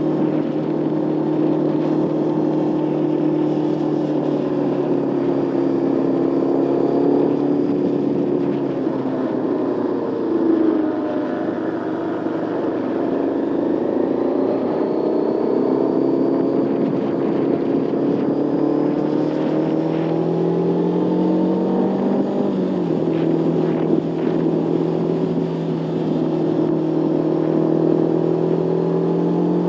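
Motorcycle engine running under way, heard from the rider's seat. The engine note eases off about ten seconds in, then climbs and drops sharply with a gear change a little past twenty seconds.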